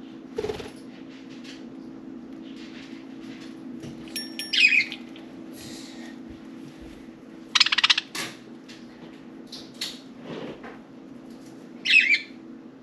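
Pet budgerigars calling: a few loud short chirps that fall in pitch, near the middle and again near the end, a fast buzzy rattle just past halfway, and softer chirps between, over a steady low hum.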